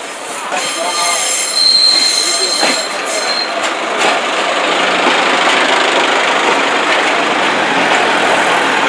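A Class 143 Pacer diesel multiple unit passing close by on its way into the terminus. For about two seconds, starting a second or so in, a high steady squeal rings from its running gear. Then the steady rolling noise of the train going past takes over and runs on.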